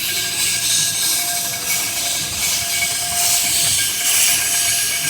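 Mount Washington Cog Railway steam locomotive No. 2 Ammonoosuc hissing steam. The steady hiss swells and eases about once a second.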